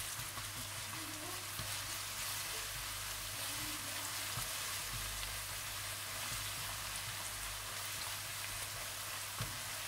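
Chopped onion, whole dried red chillies and garlic paste sizzling steadily in hot oil in a non-stick wok, stirred with a spatula.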